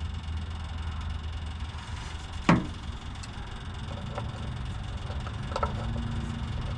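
Aftermarket electric fuel pump running with a steady low hum while the Detroit 6-71's fuel line is bled of air. A single sharp knock comes about two and a half seconds in, and a few faint ticks come later.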